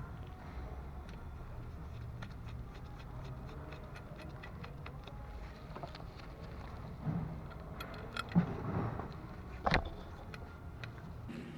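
Small metallic clicks and taps scattered throughout, with a few louder knocks about seven, eight and a half and ten seconds in, over a low steady hum.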